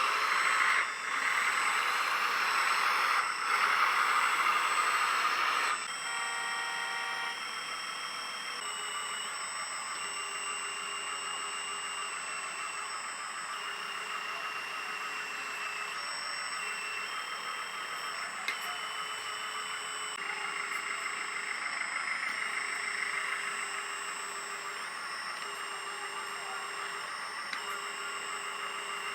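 LESU LT5 1/14 hydraulic RC tracked skid-steer loader running, with the whine of its hydraulic pump and electric motors. It is loud for about the first six seconds, then quieter, with whines cutting in and out every second or two as it is driven and worked.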